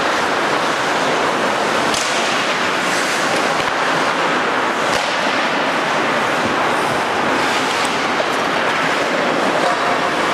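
Ice hockey rink sound during play: a steady hiss of skates on the ice with a few sharp clacks of sticks and puck, about two, five and eight seconds in.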